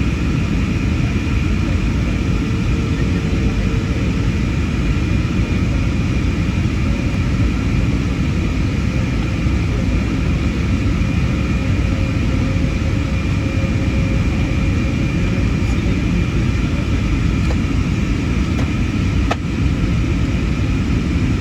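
Steady in-flight cabin noise of an Airbus A320neo, a deep, even rumble of airflow and its CFM LEAP-1A engines, with faint steady whining tones above it. A single click about two seconds before the end.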